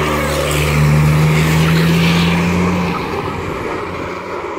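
Banger racing car's engine running hard as the car passes close. It is loud with a steady pitch for the first few seconds, then drops away and fades as the car pulls off.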